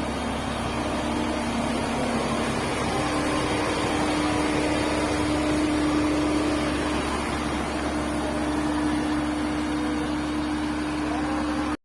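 Doosan excavator's diesel engine running steadily, an even drone with a single held tone over it.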